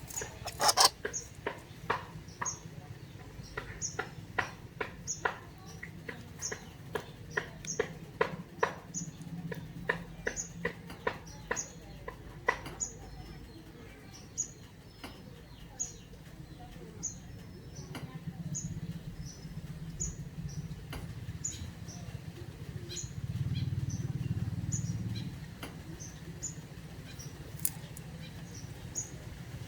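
Punai (green pigeon) chick giving thin high peeps over and over, about one every second, with a run of sharp clicks through the first half.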